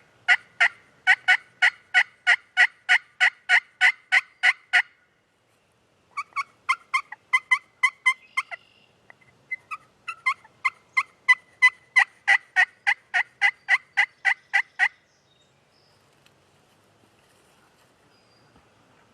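Turkey yelping: three long runs of evenly spaced yelps, about three to four a second, broken by short pauses.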